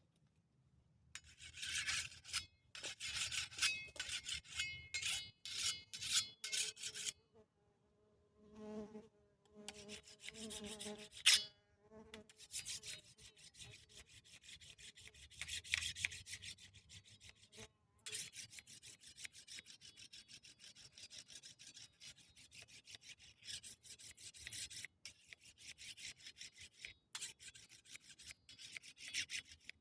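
Rapid, repeated rasping or scraping strokes, high and hissy, in runs broken by short pauses. A brief fainter hum comes in around the middle.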